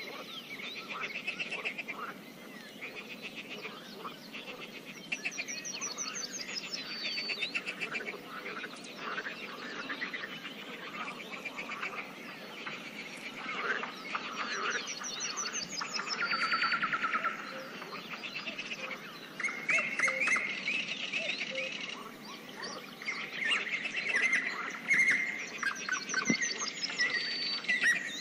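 Birds singing and chirping at a pond, a dense chorus of calls. A high, rising trilled phrase comes back about every ten seconds.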